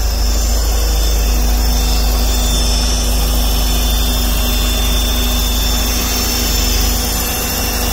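Volvo 940 turbo's 2.3-litre four-cylinder engine idling steadily, with a thin high whine over it that the owner traces to air leaking in past the throttle body gasket.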